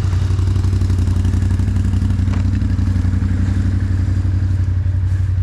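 ATV engine running steadily at low speed on a mud trail, with one brief knock a little over two seconds in.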